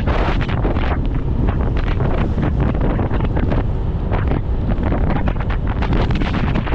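Wind buffeting the microphone of a moving motorcycle: a heavy, gusting rumble, with the bike's running noise underneath.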